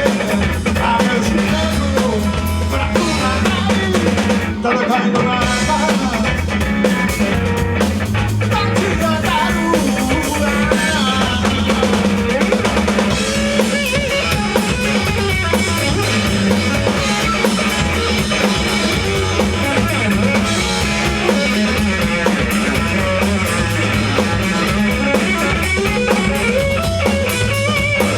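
Rock band playing live: drum kit and guitar, with a short break in the drums about five seconds in.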